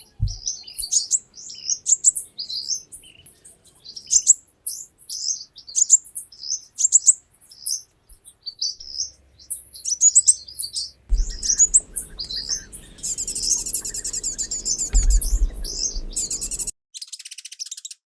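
Small birds chirping in quick, repeated high calls. About eleven seconds in, a steady noisy wash with a low rumble joins them, and the sound cuts off abruptly near the end.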